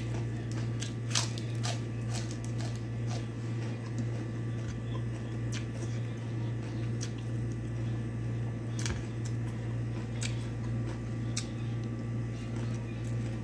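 Close mouth and eating sounds of rice and chicken eaten by hand: wet, sticky chewing with many small scattered clicks and squishes. A steady low hum runs underneath.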